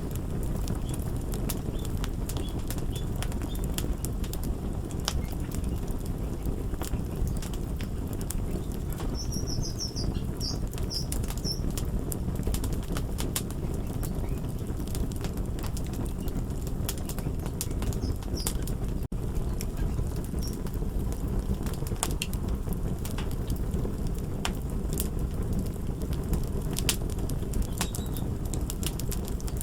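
Crackling fire: a steady low rumble of flames with frequent sharp crackles and pops. The sound cuts out for a moment about two-thirds of the way through.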